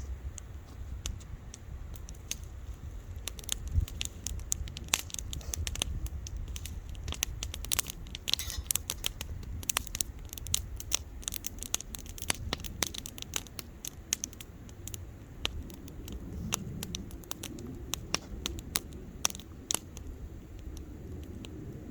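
Outdoor bonfire crackling, with many irregular sharp pops and snaps over a low steady rumble. The pops come thickest in the middle.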